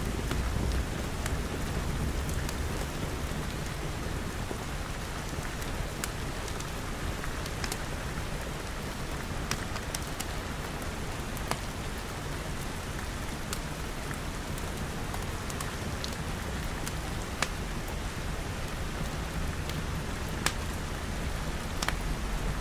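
Steady rain falling on glass, with a low rumble underneath and scattered sharp pops and crackles from a fire.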